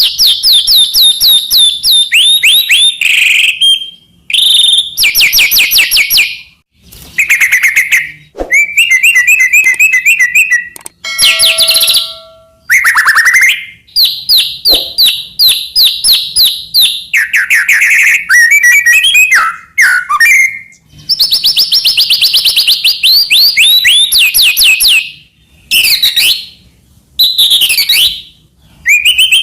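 White-rumped shama (murai batu) in full, varied song: loud phrases of fast, rapidly repeated whistled notes, each lasting a second or more, alternating with lower warbled and chattering phrases and separated by brief pauses.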